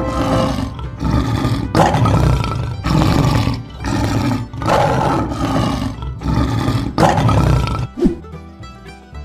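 Lion roaring over and over, about one roar every second or so, over children's background music; the roars stop about eight seconds in.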